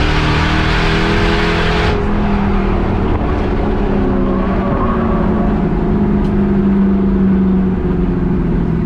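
Race car engine running hard at speed, its pitch holding fairly steady with small rises and falls. A loud hiss of wind and road noise drops away about two seconds in.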